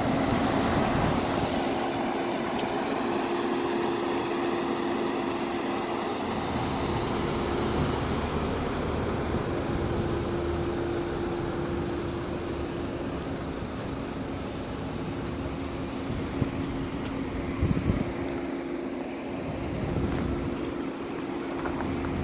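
An engine idling steadily, a low even hum, with a shifting low rumble of wind on the microphone. There are a few brief knocks about three-quarters of the way through.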